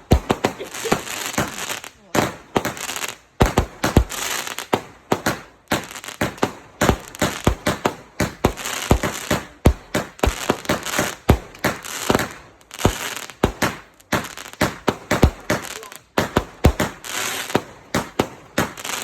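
Fireworks going off in a rapid barrage: sharp bangs several times a second over a continuous hissing crackle.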